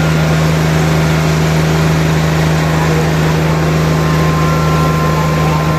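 Tractor engines running steadily and hard under load, a constant low drone with dense noise over it, as the tractors pull against each other in a tug-of-war.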